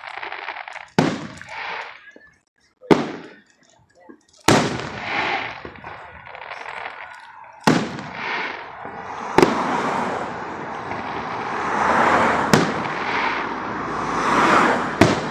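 Aerial fireworks bursting: about seven sharp bangs a second or three apart, with a crackling hiss trailing each that fills in and grows louder over the second half.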